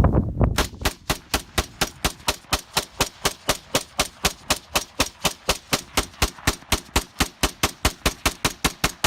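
Rapid rifle gunfire: a long, even string of sharp shots at about five a second, starting about half a second in and stopping just before the end.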